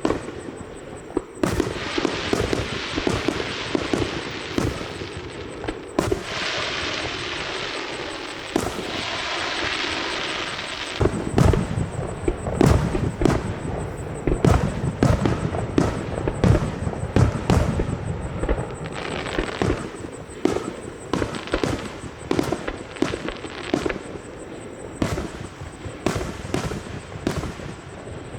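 Aerial fireworks bursting in a rapid barrage: many sharp bangs and deep booms. Stretches of crackling hiss come in the first half, and a dense run of deep booms follows in the middle.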